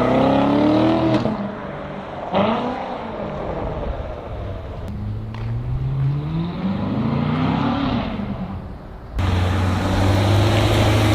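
C7 Corvette's V8 engine accelerating, its pitch climbing and then dropping at a gear change, twice. About nine seconds in, the sound cuts abruptly to a steady low engine drone.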